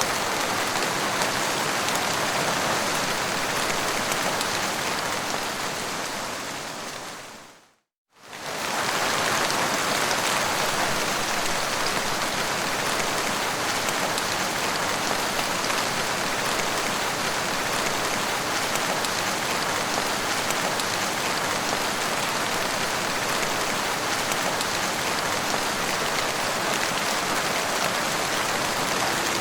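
Steady, dense rainfall, an even hiss of many drops with no single drops standing out. About seven seconds in it fades away to a brief silence and comes back within a second.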